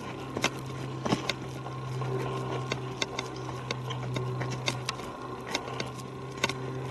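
A steady low engine-like hum with a fainter higher tone, running unchanged throughout, with scattered light clicks over it.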